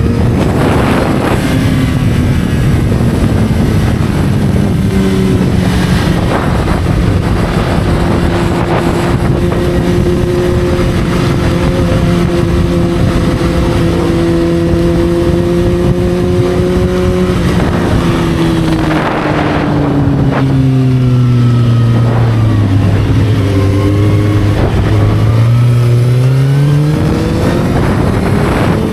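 Motorcycle engine running while riding, its pitch steady for a long stretch, then falling as it slows and rising again near the end, over a constant rush of wind noise.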